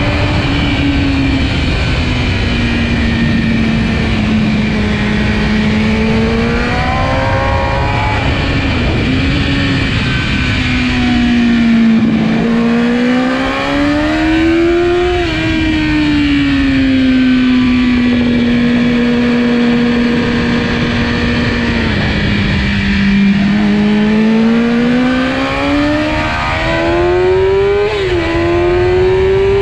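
Kawasaki ZX-10R's inline-four engine at racing speed, its pitch climbing under acceleration and dropping sharply several times at gear changes or braking. It holds one steady note for a few seconds in the middle.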